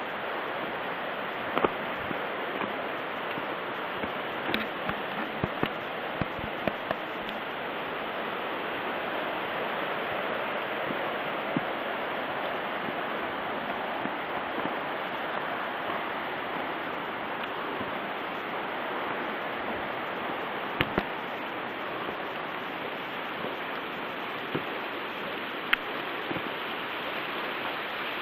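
Steady rushing of running water, with a few small sharp clicks and knocks scattered through it.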